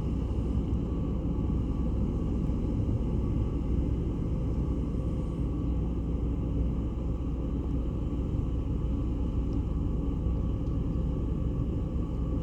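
Ferry's engines running with a steady low rumble and a faint even hum.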